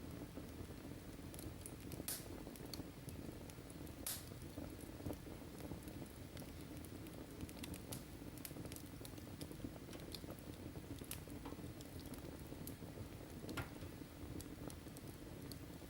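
Wood fire in a fireplace crackling faintly: a steady low rumble of flames with scattered sharp pops and snaps, a few louder ones about two and four seconds in and again near the end.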